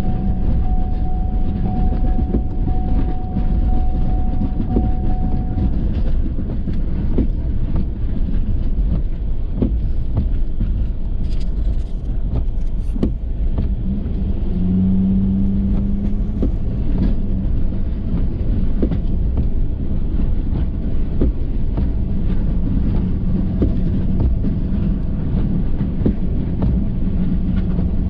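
Ford F350 plow truck driving, a steady low rumble with scattered knocks and rattles. A low hum comes in for a couple of seconds about halfway through and again near the end.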